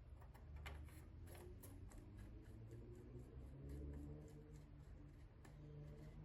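Faint light clicks and taps of small objects being handled, over a low steady hum.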